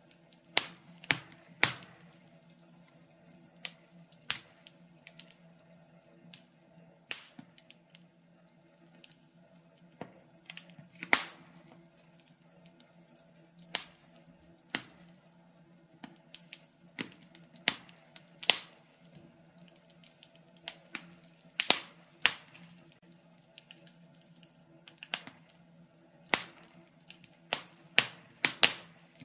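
Wood fire crackling in a fireplace: sharp irregular pops and snaps, some in quick clusters, over a faint steady low hum.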